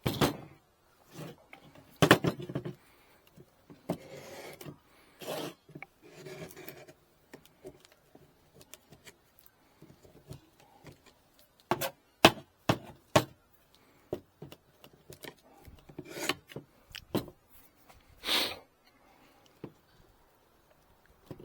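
Wooden beehive frames being worked by hand: irregular knocks and clicks of wood with short scraping rubs.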